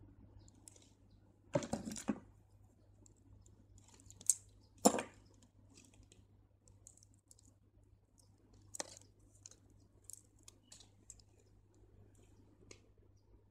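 Faint scattered clicks of crystal beads and the threaded beadwork being handled, the thread worked back through the beads; the loudest clicks come about two seconds and five seconds in.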